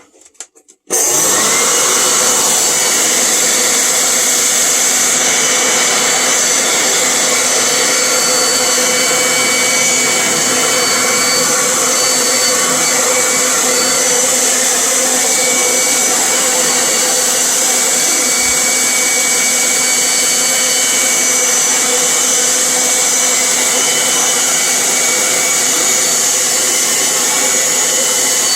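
Leaf blower switched on about a second in and running steadily at full speed, a loud, even rush of air with a fixed whine, blowing into a tankless water heater to dry out its wet moisture sensor.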